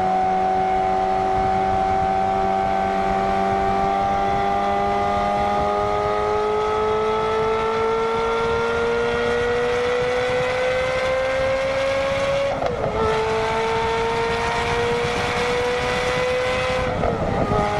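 Ferrari F430's 4.3-litre V8 howling through a Kreissieg valvetronic exhaust under steady acceleration, its pitch climbing slowly through a long gear. It drops with an upshift about twelve seconds in, then climbs again until another gear change near the end.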